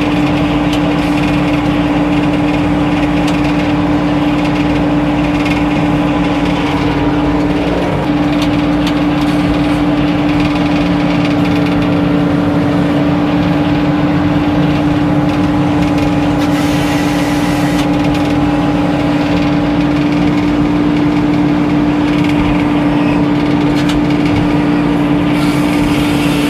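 Circular sawmill machinery running, one steady, unchanging hum with a faint dip about eight seconds in.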